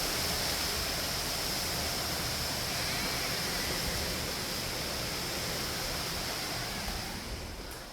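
Heavy rain from an approaching hurricane pouring down in sheets, a steady, even rushing noise that fades off near the end.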